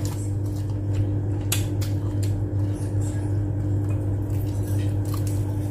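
A person chewing a mouthful of grilled chilli and rice, with a few sharp wet mouth clicks, over a steady low hum.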